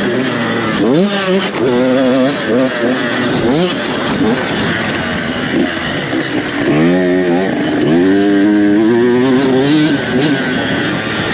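Several motocross dirt bikes racing around the track, engines revving up and dropping back again and again as the riders accelerate, shift and back off, with overlapping engine notes.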